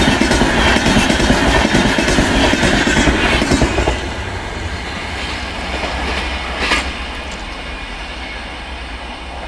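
A parcel express's LHB vans pass close at speed, their wheels clattering rapidly over the rail joints. About four seconds in this drops to a lower, steady rumble that fades as the train runs away into the distance, with one short sharp sound about seven seconds in.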